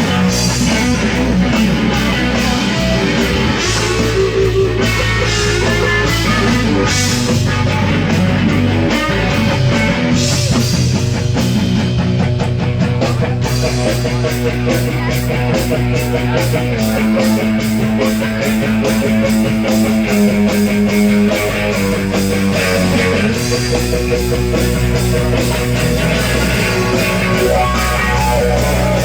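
Live band playing loud rock with guitar, bass and drums: an instrumental passage with no vocals, steady drum beat throughout.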